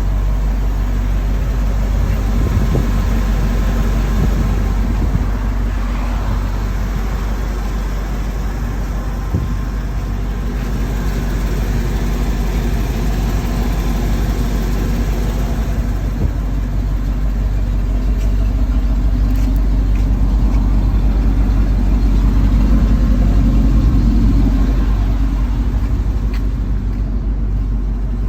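Engine of a 1997 Ford F700 dump truck running steadily, growing louder about two-thirds of the way through and then easing back.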